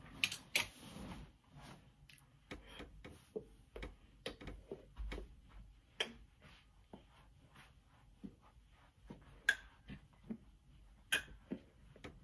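Handling noises: irregular light clicks and taps, with a short rustle just after the start.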